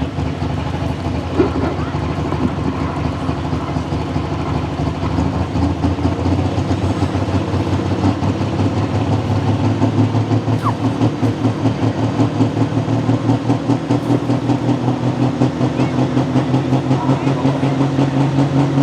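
Large tractor engine idling with a steady, regular throb that grows louder through the second half.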